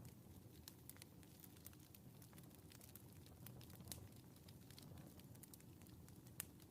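Faint wood fire in a fireplace crackling: a low steady rumble with scattered sharp pops, one louder pop near the end.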